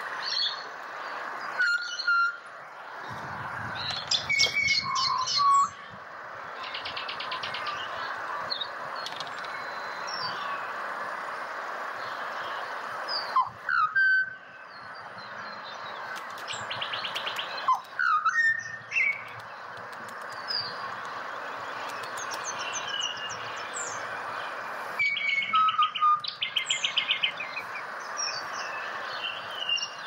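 Pied butcherbirds calling: short fluty whistled notes, some sliding up or down, coming every few seconds. Higher, rapid trilled chirps are mixed in, over a steady background haze.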